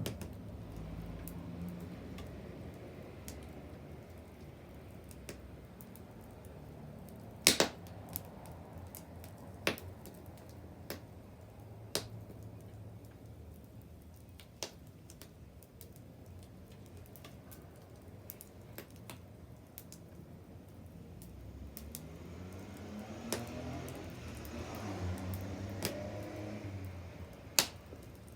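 Wood bonfire crackling, with scattered sharp pops over a low steady rumble. The loudest pop comes about seven and a half seconds in and another near the end. A low, wavering rumble swells and fades in the last few seconds.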